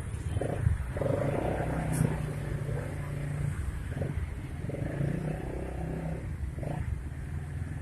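Vehicle engine and road traffic noise on a busy street, heard while moving along it, with one brief sharp sound about two seconds in.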